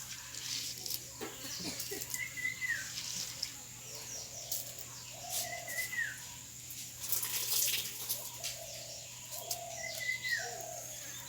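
A bird calling: a short, high note that slurs downward, repeated about every four seconds, with shorter lower notes between. Scattered sharp clicks and crackles run through it, thickest past the middle.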